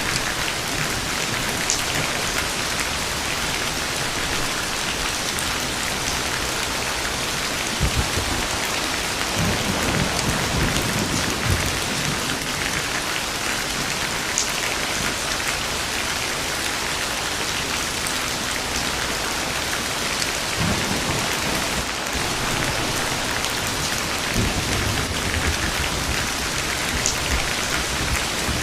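Steady rain falling, with low rumbles of thunder rolling in several times: once about a third of the way in, and again in the last third.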